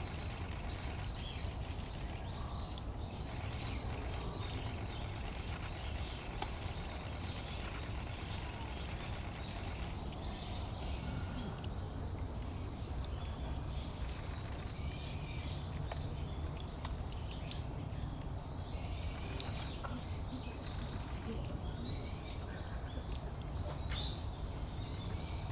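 An insect, likely a cricket, trilling in one continuous high-pitched tone without a break, over a low steady background rumble.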